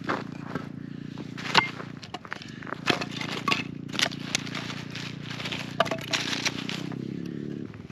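Wood campfire crackling, with irregular sharp pops and snaps, over a steady low hum.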